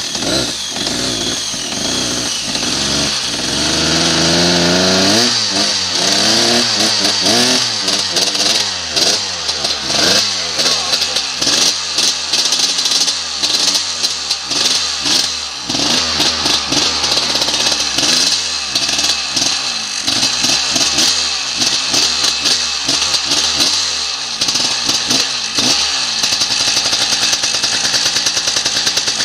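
The two-stroke engine of a 2002 KTM 250 EXC dirt bike running again after being drowned and cleared of water. It climbs in revs a few seconds in, then is revved up and down over and over.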